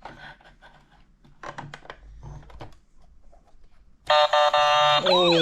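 Electronic siren of a toy police car: a loud steady horn-like tone starts suddenly about four seconds in, then turns into quick repeating rising-and-falling wails. Before it, faint clicks and rattles of plastic toys.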